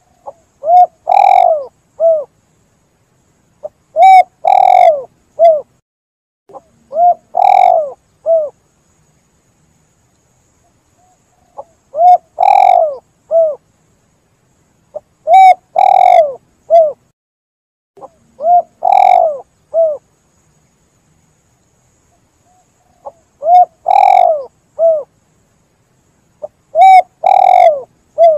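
Spotted dove (tekukur) cooing: a phrase of a short note, a long loud note and a short closing note, repeated about every three seconds, with a few longer pauses between phrases.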